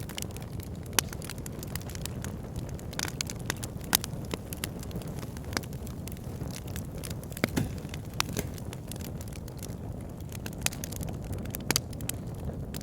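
Wood fire burning in a log burner, crackling: frequent sharp pops and snaps from the burning logs over a steady low rumble of flames.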